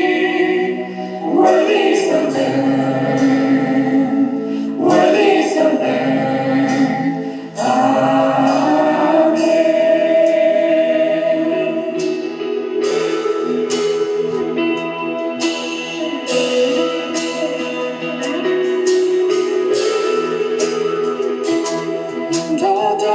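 A worship team sings long, held choral notes with band accompaniment. About halfway through, the band starts a song intro with a steady beat of regular strokes.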